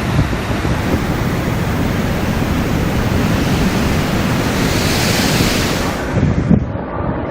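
Storm wind buffeting the microphone over heavy seas, a dense rush of wind and waves with a low rumble. A hissing surge of water swells about four seconds in. The high hiss then drops away abruptly near the end.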